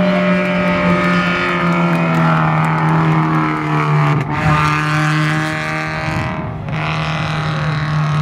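Rally car engine running hard at high revs, one steady tone whose pitch eases slowly downward, dipping briefly in loudness about six and a half seconds in.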